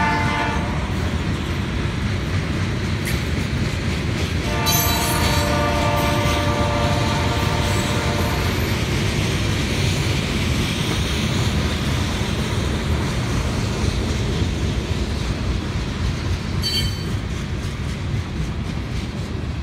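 BNSF manifest freight train rolling by: a steady rumble and clatter of hopper, tank and flatcars on the rails. The locomotive's air horn sounds from a distance, a brief chord at the very start and a held blast of about four seconds from about five seconds in. A short high wheel squeal comes near the end.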